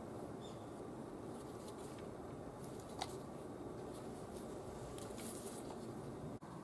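Quiet room tone with a single faint click about three seconds in and a few soft rustles a little later.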